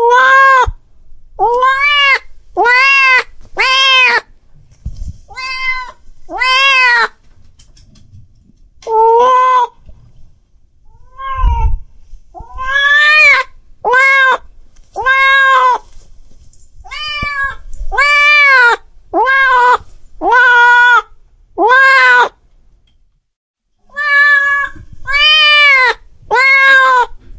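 A cat meowing over and over: about twenty short meows, each rising then falling in pitch, coming in runs of two to four with brief pauses between.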